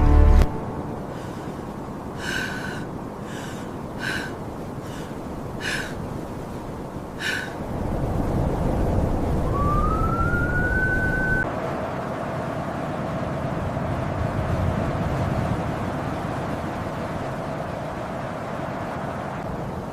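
Blizzard wind blowing steadily with distant wolves calling: five short high yips, then one rising howl about ten seconds in.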